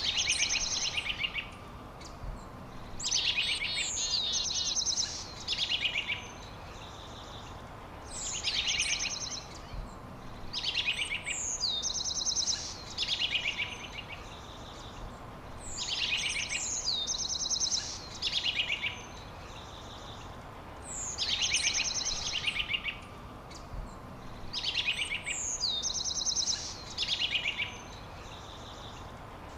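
A songbird singing the same short phrase over and over, every two to three seconds: each phrase opens with a high falling whistle and runs into fast, buzzy trills. A steady outdoor hiss lies underneath.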